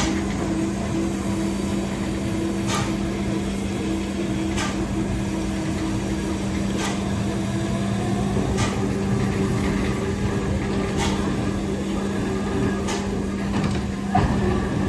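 A machine running with a steady hum, with a sharp tick about every two seconds.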